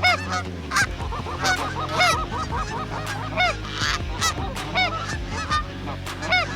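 A flock of Canada geese honking, many overlapping calls at once, over a steady low hum.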